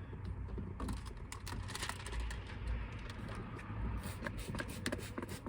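Irregular light clicks and taps of window tint film and a knife being worked against the truck's back window glass, over a steady low hum.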